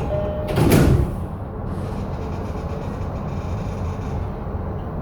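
E233 series 7000 electric train running, a steady low rumble, with a brief loud rushing burst about a second in.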